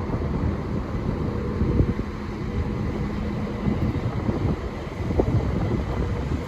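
Class 375 Electrostar electric multiple unit on the move, a low rumble with a faint steady hum for the first few seconds, with wind buffeting the microphone.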